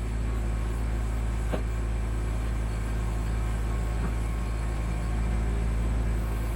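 Kubota B2650 compact tractor's three-cylinder diesel engine running steadily while the BH77 backhoe is worked, with two faint knocks about a second and a half and four seconds in.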